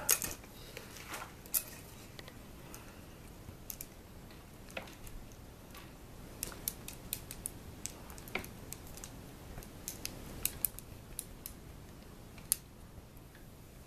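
Irregular small clicks and taps, a few a second at most, over faint room tone, with one sharper click near the end.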